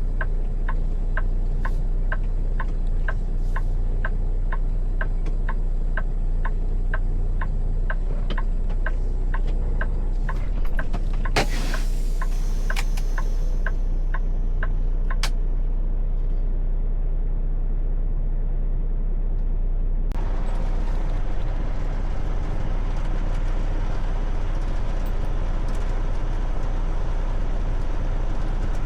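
A truck's engine running steadily at a low rumble, with even ticking about twice a second for the first ten seconds. A short loud hiss, like an air brake, comes near the middle, and the sound turns fuller and noisier about two-thirds of the way in.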